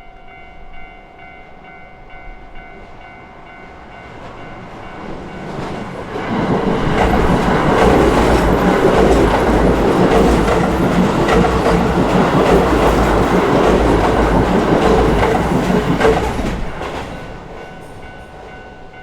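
Level-crossing warning bell ringing steadily, then a Keio Line electric train runs over the crossing from about six seconds in, loud for some ten seconds, its wheels clacking over the rail joints and drowning out the bell. The train fades after about sixteen seconds and the bell is heard again near the end.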